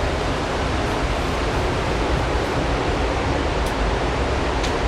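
Waterfall in full flood after heavy rain: a steady, even rush of falling water.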